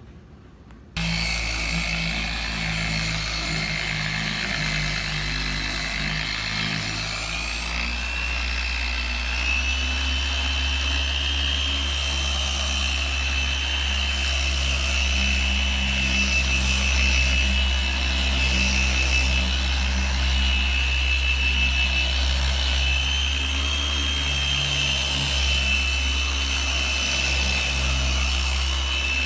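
Electric polishing machine switched on about a second in and running steadily, working a cleaning product on a car hood's paint. Its whine steps up in pitch twice, around seven and ten seconds in.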